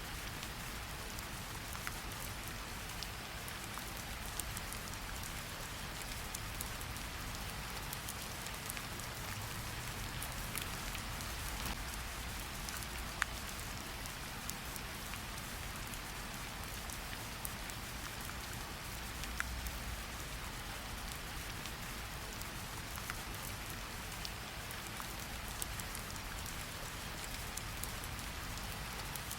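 Steady hiss of rain with a low rumble underneath, broken by scattered sharp pops and crackles from a wood fire.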